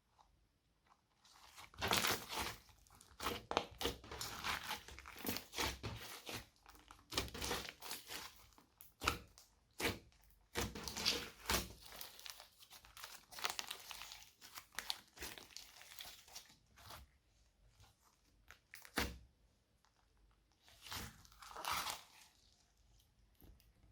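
Slime being handled and mixed by hand: irregular crackly rustling in clusters for most of the clip, then a single sharp crack and two short bursts near the end.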